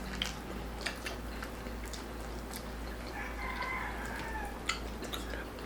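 A rooster crowing once, faint, about three seconds in, one call held for about a second and a half, with small clicks of eating around it.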